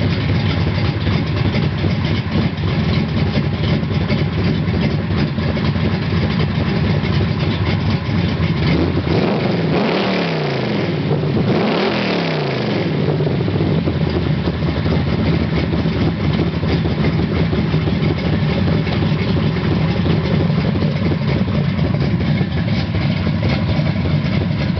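1979 Camaro's 427 cubic-inch big-block Chevrolet V8 idling steadily. It is revved twice, about ten and twelve seconds in, the pitch rising quickly and falling back to idle each time.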